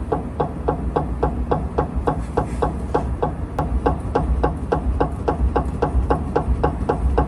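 Suspension noise on a 2019 Renault Megane 4: a steady, rapid clicking, about three to four clicks a second, over a low rumble.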